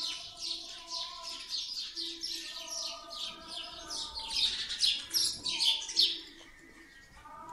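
Birds chirping in quick, high, repeated chirps, a few per second, with some longer whistled notes underneath; the chirping is loudest about four to six seconds in and drops off sharply after that.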